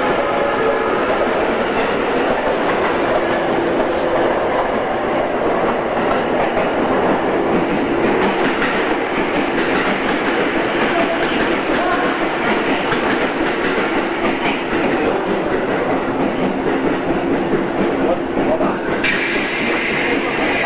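JR East 113 series electric train running, heard from inside the car: steady rolling noise and motor hum with rail-joint clickety-clack. Near the end a sudden hiss comes in over it.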